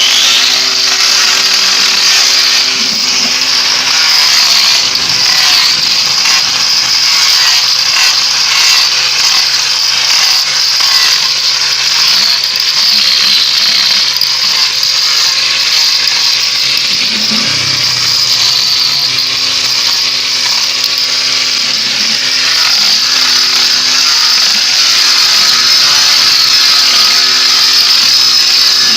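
Electric power tool running continuously with a high whine that drifts slightly in pitch as it works the wood.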